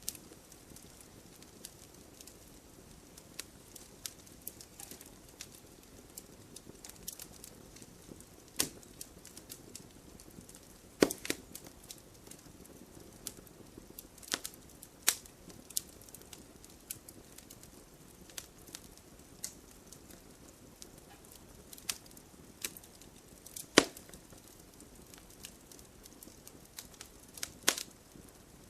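Wood fire burning in a fireplace: irregular small crackles and sharp pops over a soft steady hiss, with a few louder snaps scattered through.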